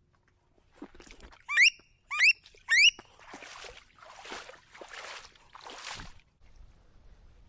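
Three loud, rising squealing whistles of wood ducks about half a second apart, followed by four evenly spaced swishing sounds.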